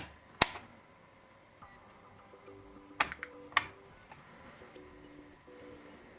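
Sharp clicks of small hard parts being handled: two near the start and two more about three seconds in, with faint steady tones coming and going in between.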